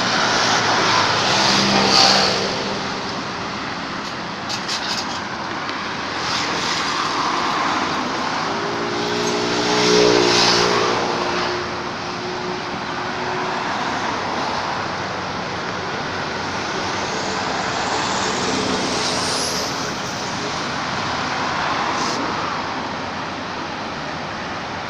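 Road traffic: a steady wash of vehicles passing, with louder engines going by about two seconds in and again about ten seconds in.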